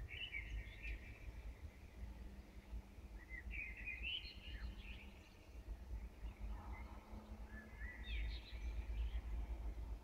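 A songbird singing three warbling phrases, each about two seconds long and a few seconds apart, over a low steady background rumble.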